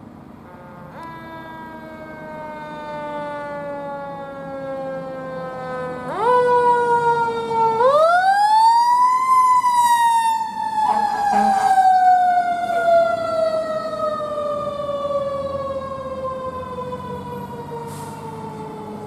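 Fire engine siren wailing, with a pitch that slowly falls, rises sharply twice and then glides down in a long fall. It is loudest in the middle, as the engine passes by.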